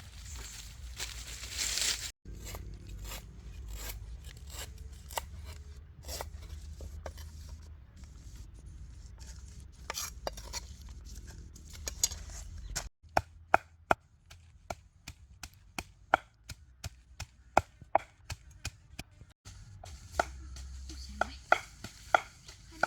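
Knife chopping food on a cutting board: a run of sharp strokes, scattered at first, then steady at about two to three a second in the second half.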